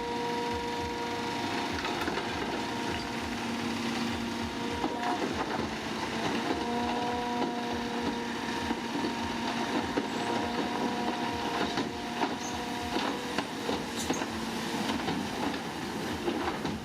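Heavy earthmoving machinery working: a steady machine rumble with a pitched whine that drops out and returns, and irregular metallic clanks and rattles from about five seconds in.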